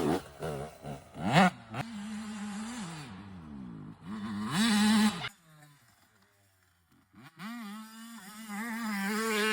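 Small dirt bike engine revving up and down as it is ridden, the pitch rising and falling with the throttle. It fades almost away for a couple of seconds in the middle, then comes back and builds again.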